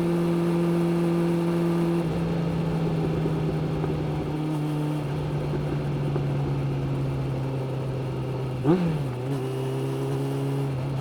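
Suzuki GSX-600F's inline-four engine running at a steady note, then easing off about two seconds in and sinking slowly in pitch as the bike slows. Near the end a brief rev blip, then a lower steady note.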